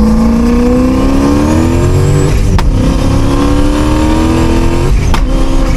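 Turbocharged Coyote 5.0 V8 of a 2015 Mustang pulling hard at full throttle, its pitch rising steadily through a gear, then dropping at a quick shift about two seconds in with a sharp crack, and rising again through the next gear until another shift with a crack near the end.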